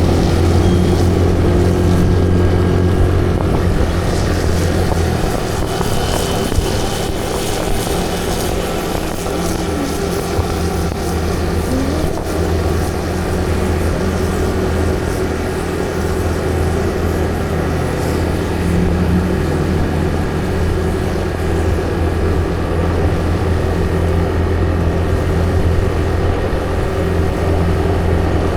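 A moving vehicle heard from on board: its engine runs with a steady, even hum over a constant rush of road noise.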